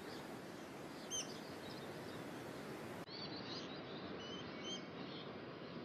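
Rainforest ambience: a steady background hiss with a few short, high bird chirps, one about a second in and several fainter ones in the second half.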